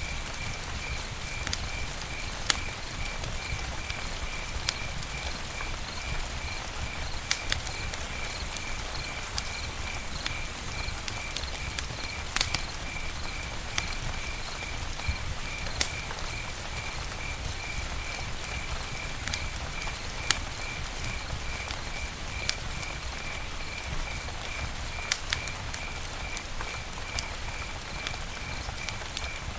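Campfire crackling: sharp pops scattered through a steady hiss. Throughout, a high chirp pulses steadily at about three beats a second.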